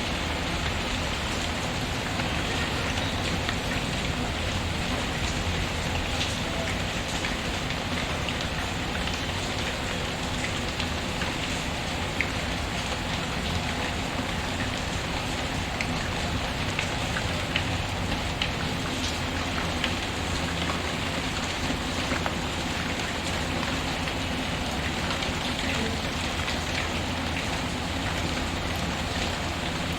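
Steady rain patter, with a wood fire crackling now and then in sharp single pops.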